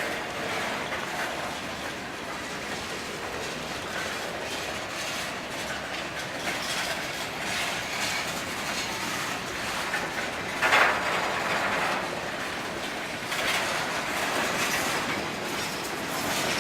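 A long, slow train's cars rolling past, wheels clattering on the rails, with one louder surge of wheel noise about eleven seconds in.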